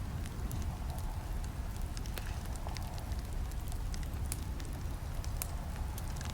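Campfire crackling: scattered sharp snaps and pops of burning wood over a steady low rumble of the flames.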